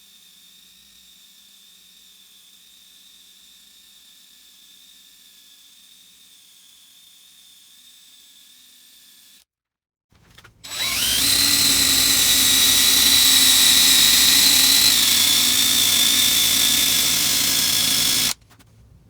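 Drill spinning a 3M adhesive eraser wheel against the truck's painted fender to strip emblem adhesive: about halfway through it spins up with a rising whine, runs steadily and loudly for about eight seconds, then cuts off. Before that, only a faint steady high whine.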